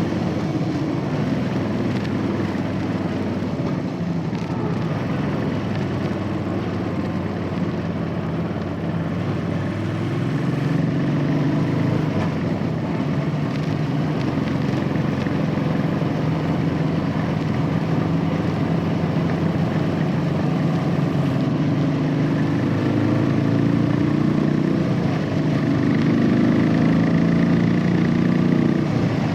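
Royal Enfield Classic 500's single-cylinder four-stroke engine running through its stock exhaust under way. The engine note steps up and gets louder about ten seconds in, and again near the end.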